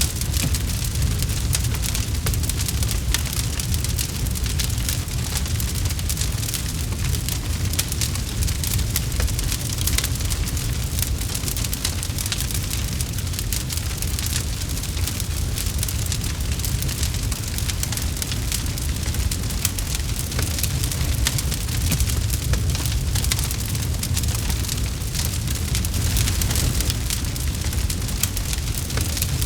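Campfire burning with dense, continuous crackling and small pops over a steady low rumble.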